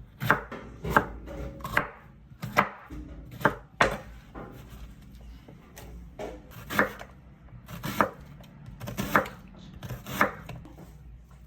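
Knife chopping bell pepper and onion: about ten separate cuts at uneven spacing, with a pause of a couple of seconds midway.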